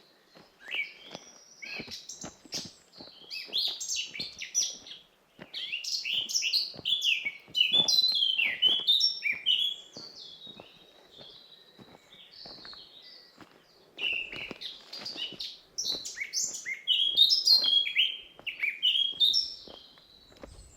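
Forest songbirds singing: rapid phrases of high, mostly falling chirps, with lulls between them and the busiest song in the middle and near the end.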